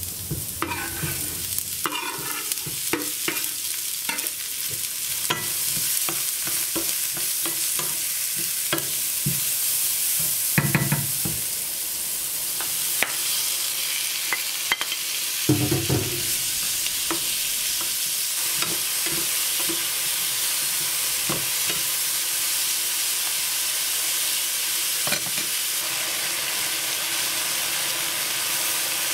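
Sliced leeks sizzling in hot oil in a frying pan, stirred with a utensil that knocks and scrapes against the pan. Strips of beef go in about halfway through, and the steady sizzle carries on.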